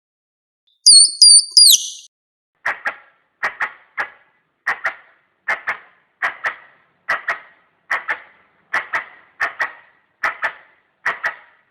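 Squirrel calls used as a hunting lure: three loud, high whistled notes, the last hooking downward, then a steady run of paired clicking chucks, about one pair every 0.8 s.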